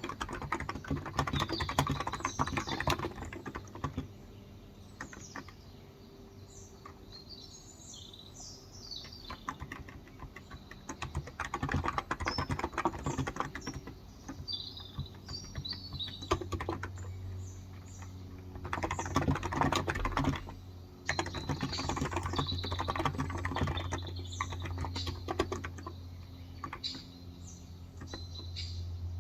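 Typing on a Cox Endeavour contactless (electro-capacitive) tenkeyless keyboard with 35 g switches, in runs of quick keystrokes broken by pauses. Small birds chirp in the background throughout.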